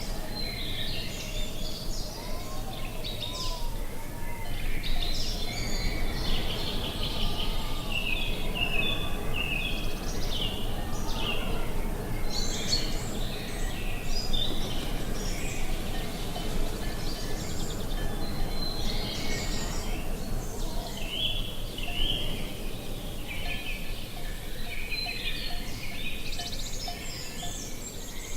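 A chorus of birds chirping and singing, many short calls overlapping, over a steady low background noise.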